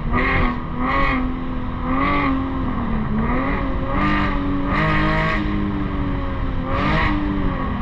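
Straight-piped Infiniti G37's VQ37VHR 3.7-litre V6, with muffler and resonator deleted, pulling hard under acceleration. Its exhaust note climbs at the start, then holds high, swelling louder again and again.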